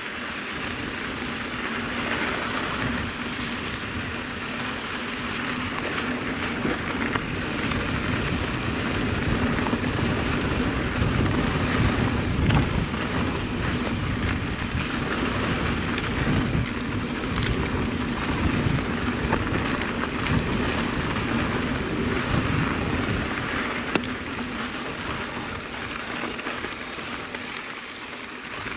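Mountain bike riding along a dirt and gravel trail: tyres crunching over sand and grit with the bike rattling, a steady noise that swells for a while midway and eases near the end, with a sharp click or two.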